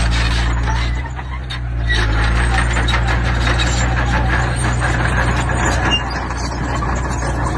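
Diesel engine of heavy earthmoving machinery running steadily under load, dipping briefly about a second in, with a dense clatter over it.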